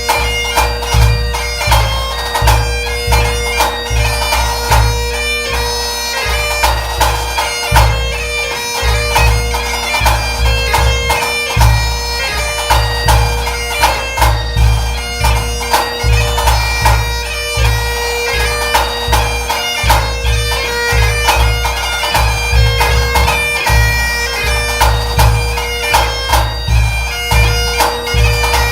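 Highland bagpipe playing a tune over its steady drones, with a bass drum beating a steady rhythm under it.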